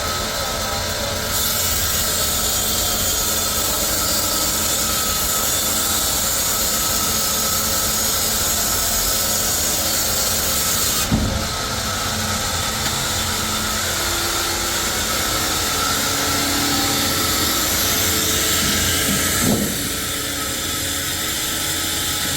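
Sawmill saw running and cutting wood, a steady dense mechanical noise whose tone shifts a few times, with a short knock about halfway through.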